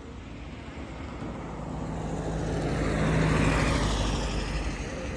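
A motor vehicle passes by, its engine and tyre noise growing to a peak about three seconds in and then fading as its pitch drops.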